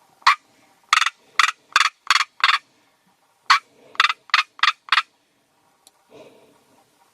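Northern black korhaan (white-quilled bustard) calling: two series of loud, harsh, scratchy notes, six in the first and five in the second, about three notes a second with a short break between the series.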